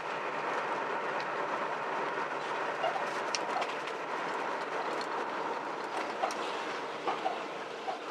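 Steady engine and road noise inside the cabin of a 1976 Pontiac Firebird Formula being driven, with a few faint ticks and rattles.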